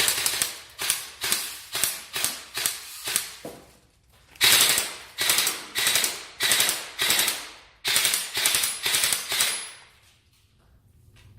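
Airsoft rifle firing a rapid series of single shots, about three a second, each a sharp mechanical crack. The shots come in two strings with a short pause about four seconds in, and stop near the end.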